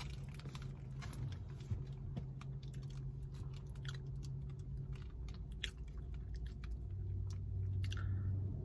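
A person chewing a sub sandwich close to the microphone, with irregular soft clicks and wet mouth sounds, then biting into the bread again near the end.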